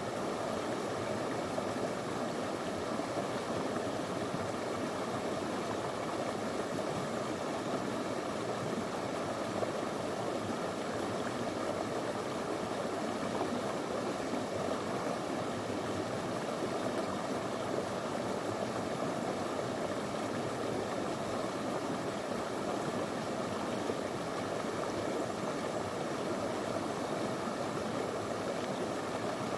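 Small stony river flowing steadily, a constant rush and babble of water over rocks.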